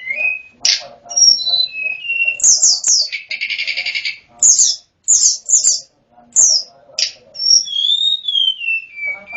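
Sunda robin (sulingan gunung) singing: a run of clear whistled notes and quick down-slurred phrases, with a short buzzy trill about three seconds in and a long wavering whistle that slides downward near the end.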